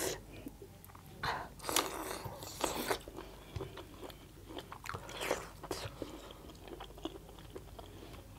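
Two people chewing and biting into pieces of chicken curry eaten by hand, heard as short, irregular wet mouth sounds.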